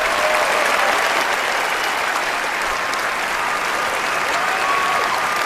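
Crowd applause clapping steadily, with a few faint voices in it.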